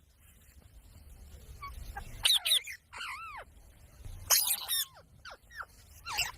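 Parrot giving a run of about six short calls, each arching up and then sweeping down in pitch, starting about two seconds in after a quiet stretch.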